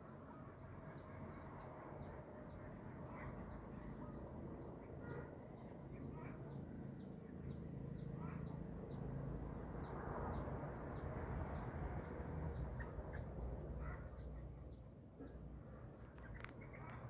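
A small bird calling one short, high, falling chirp over and over, about two a second, over a steady high whine and low background rumble.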